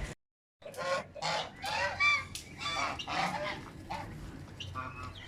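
Geese honking in a rapid series of short calls, with a brief dead gap just after the start.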